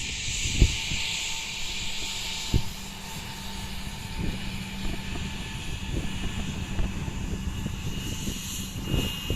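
Airplane engines running with a steady hum over a low rumble. A hiss fades out in the first few seconds, and there are two sharp thumps, one under a second in and one about two and a half seconds in.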